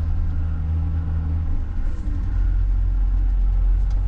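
Vehicle engine running with a steady low hum; about a second and a half in its pitch drops and it settles into a deeper hum.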